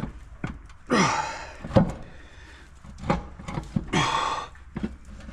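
Crankshaft of a Minneapolis Moline ZA engine being rotated by hand in the block: a series of sharp metal clunks and knocks, the loudest a little under two seconds in, with two longer rasping sounds about a second in and about four seconds in.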